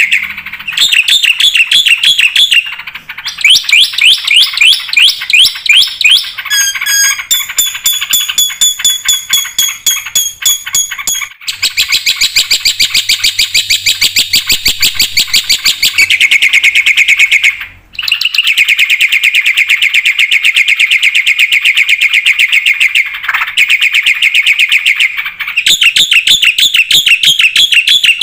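Black-winged myna (jalak putih) singing loudly and almost without a break: long runs of rapid, fast-repeated chattering notes, with a stretch of clear high whistles about a third of the way in and a short pause just past the middle.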